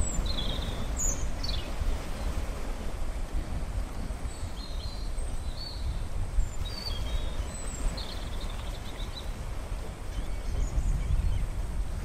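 Steady low rumble of wind on the microphone and the sea, with short high bird chirps several times.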